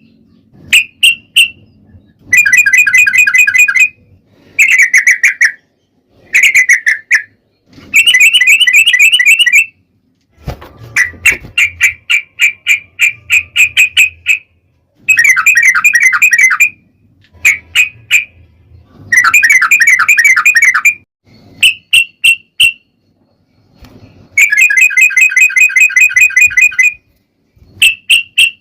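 Yellow-vented bulbul (trucukan) singing loudly: rapid rolling, chattering phrases of one to two seconds, broken up by short runs of sharp, quickly repeated chirps.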